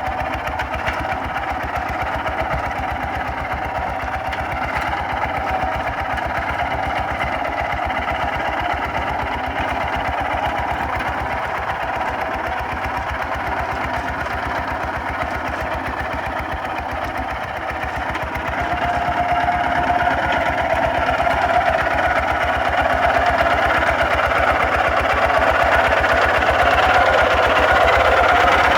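Kubota RT 140 DI single-cylinder diesel engine of a walking tractor running steadily, its firing beats rapid and even. It grows louder about two-thirds of the way through.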